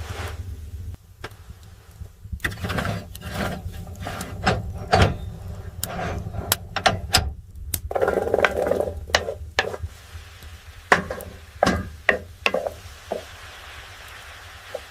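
Irregular wooden knocks and clatters from handling utensils and wood, with a brief scraping or rubbing sound about eight seconds in, over a steady low hum.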